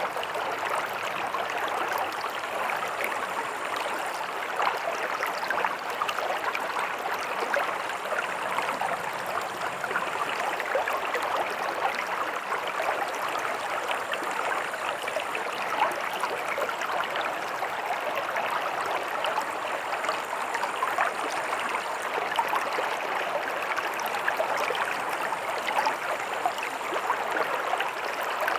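A stream running steadily, its water rushing and babbling over stones with dense little splashes and no pauses.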